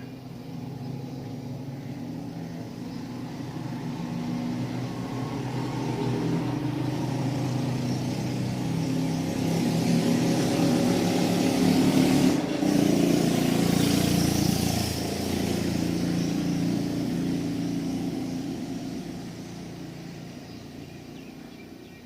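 A passing engine with a humming, pitched sound. It grows gradually louder to a peak about halfway through, then fades away again, as a vehicle or aircraft does going by.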